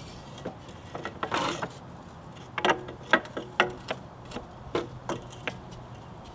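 Metal two-stroke exhaust pipe knocking and scraping against the dirt bike's frame as it is worked into place: a short scrape early on, then a string of separate clanks and taps.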